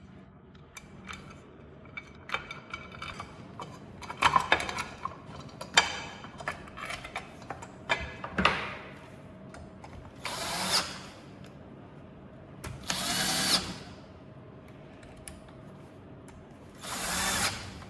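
Clicks and knocks of parts being handled, then a power screwdriver driving screws into the belt sander's cover in three runs of about a second each.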